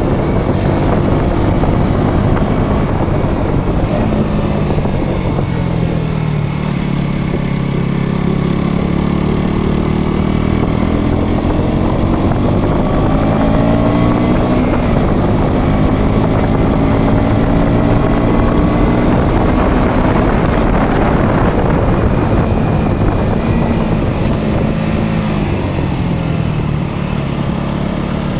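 Motorcycle engine running under way, its pitch rising and falling repeatedly as the rider works the throttle and gears.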